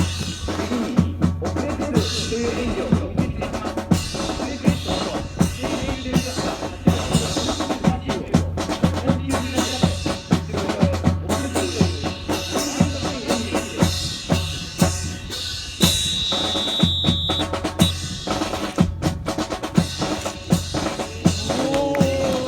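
Rifle drill: sharp clacks and knocks of rifles slapped, spun and grounded, with boots stamping in unison, in a quick rhythm like a drum kit over a steady low hum. A steady high tone sounds for about two seconds past the middle.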